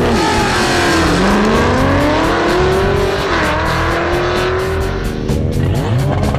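Drag-racing muscle car engine accelerating hard, its pitch climbing, dropping briefly with a gear change about three seconds in, then climbing again, under background music.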